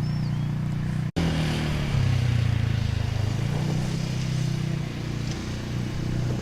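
A motor vehicle's engine running with a steady low hum. The sound cuts out abruptly about a second in, and the engine's pitch shifts a little after that.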